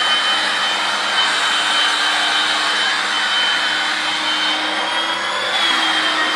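Electric air-mattress pump running steadily, blowing a loud rush of air with a constant high motor whine; the whine bends briefly in pitch about five and a half seconds in.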